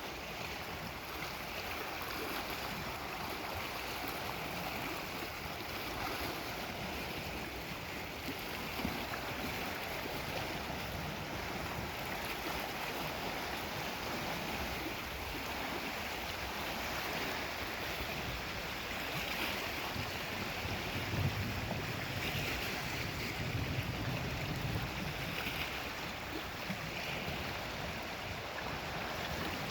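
Steady wash of Lake Superior waves on the shore. A low rumble swells in about two-thirds of the way through and fades again.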